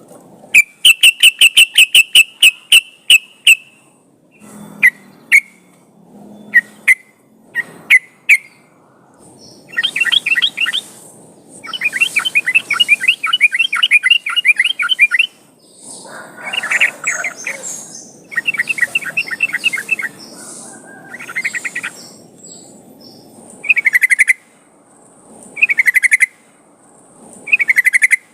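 Yellow-vented bulbul (trucukan) singing loudly: a quick run of sharp clicking notes, then long bubbly chattering phrases, and near the end short clipped calls about every two seconds. A lure song meant to set other bulbuls singing.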